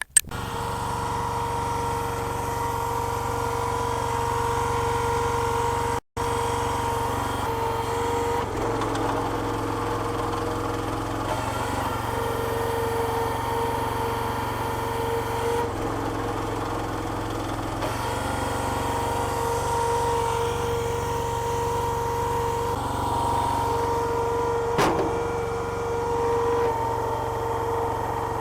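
Petrol engine of a homemade hydraulic log splitter running steadily, its note shifting several times as the load changes, with one sharp crack near the end.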